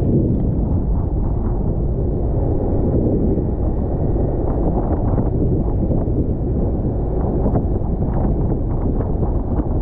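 Loud, steady wind rumble buffeting the microphone, as from a camera on a moving vehicle in the open air.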